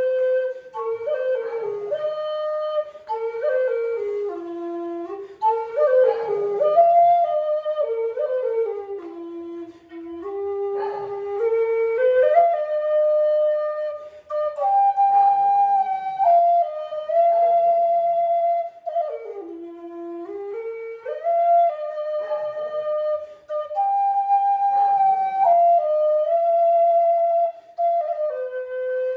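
A single flute-like wind instrument playing a slow worship melody unaccompanied, moving stepwise between held notes, some of them with vibrato.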